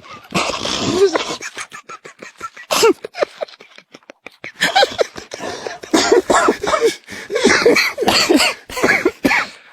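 A person's non-word vocal sounds: breathy, cough-like bursts at first, then a run of short, high-pitched vocal sounds through the second half.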